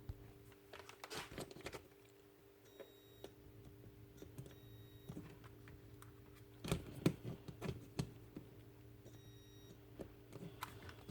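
Continuity tester on a multimeter beeping twice, each beep about half a second, as the probes are touched across the conductors of the jigsaw's mains lead, with clicks and taps of the probes being handled. The beeps show that the conductors are intact.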